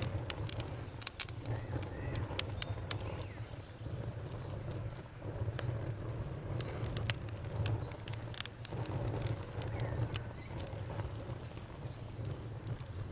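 Campfire crackling with sharp scattered pops, over frogs croaking in low bouts that come and go every second or two and a steady high cricket trill.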